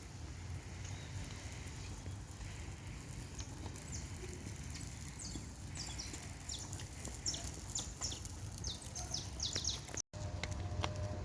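Birds chirping in short, high, downward-sliding notes that come more and more often through the second half, over a low steady rumble. The sound cuts out for a moment about ten seconds in.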